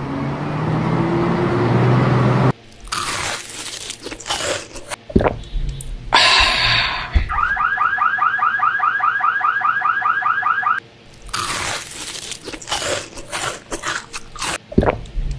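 Car alarm warbling in a fast run of rising chirps for about three and a half seconds. Around it are scattered sharp knocks and crunching hits, and at the start a vehicle engine hum that cuts off abruptly.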